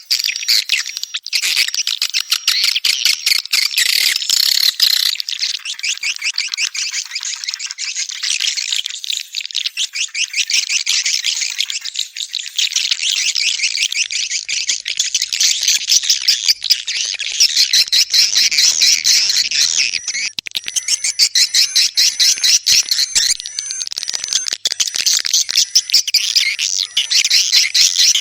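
Swiftlets calling: a continuous, dense, high-pitched chattering twitter of rapid chirps and clicks. This is the kind of swiftlet call recording played to lure birds into a nesting house.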